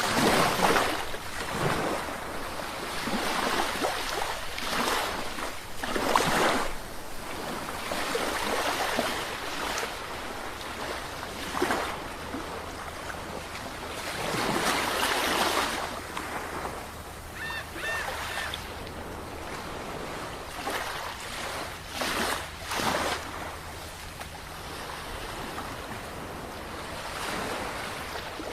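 Sea waves breaking and washing ashore in repeated surges, each swelling up and falling away over a second or two. About two-thirds of the way through, three short high chirps sound quickly one after another.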